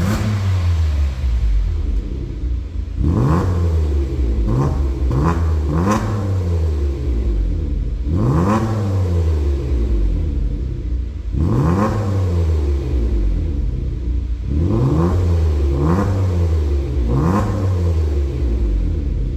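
Hyundai Grandeur IG 3.0's V6 engine through a custom JSR variable-valve exhaust, revved in about ten short throttle blips and falling back to idle between them, some blips coming in quick runs of two or three.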